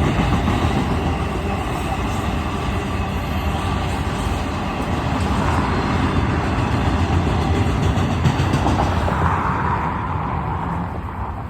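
Union Pacific double-stack container train's cars rolling past on the rails, a steady rumble of wheels and cars that eases off near the end.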